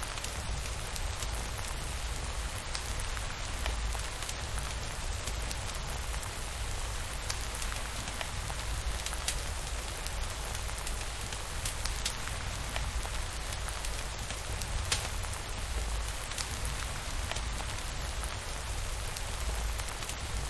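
Steady rain falling, an even hiss with scattered sharp drop ticks over a low rumble.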